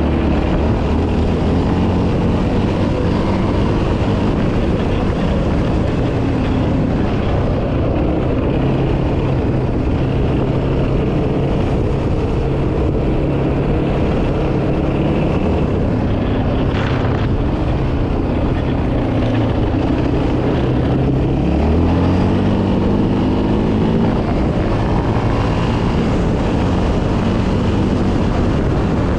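Yamaha Raptor 700R quad's single-cylinder four-stroke engine running under way, its note mostly steady, then rising quickly about three-quarters of the way through as the throttle is opened.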